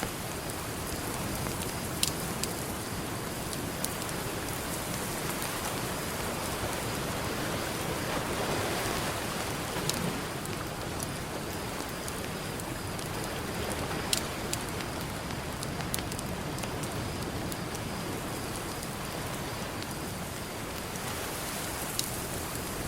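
Campfire crackling, with a few sharp pops from the burning wood, over a steady wash of ocean surf that swells briefly about eight seconds in.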